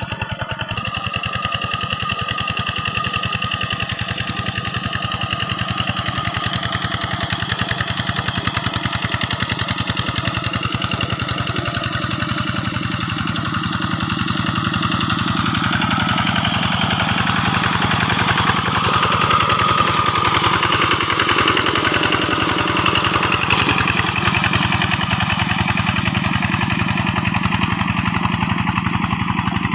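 Two-wheel hand tractor's single-cylinder diesel engine running steadily under load while plowing a rice paddy.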